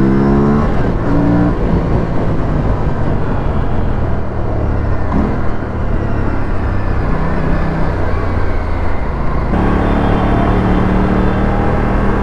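Aprilia RS457's 457 cc parallel-twin engine and exhaust on the move: the note rises under acceleration at the start, settles into a steady run under a dense rushing noise, then pulls again with a slowly rising note from about nine and a half seconds in.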